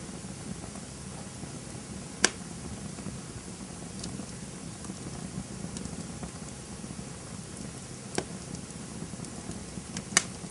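Campfire burning with a steady low rumble and occasional sharp pops from the burning wood: one about two seconds in, another near eight seconds, and a quick pair near the end.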